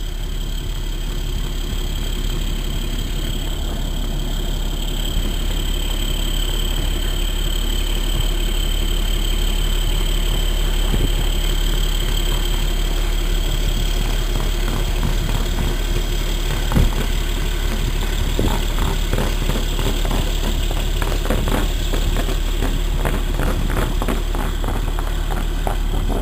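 Diesel engine of a milk tanker truck running under load as it pulls forward up a snowy hill on chained tyres, growing a little louder over the first several seconds and then holding steady. Occasional short knocks come in the second half.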